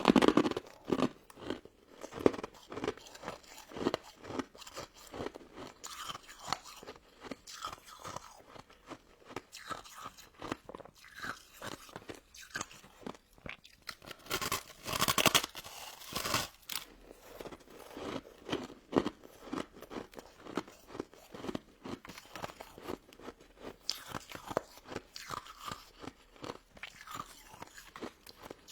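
Close-up eating sounds: crisp crunching and chewing of a crystal snow ice dessert, many short crunches in quick succession, with a longer, louder stretch of crunching about halfway through.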